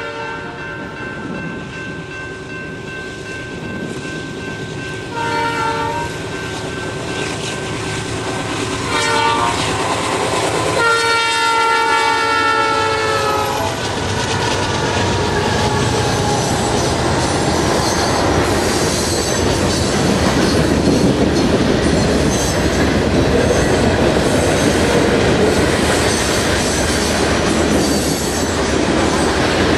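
Air horn of a BNSF GE C44-9W diesel locomotive sounding a series of blasts as a freight train approaches, the last a long blast that drops in pitch as the locomotives pass. After that, a long string of covered hopper freight cars rolls by with steady clickety-clack and some wheel squeal.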